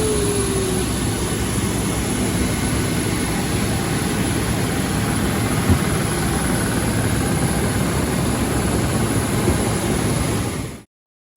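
Steady cabin noise of a Boeing 737-800 taxiing after landing: the even rush of its CFM56 jet engines at idle, with a faint high whine and a single light knock about halfway through. It cuts off suddenly just before the end.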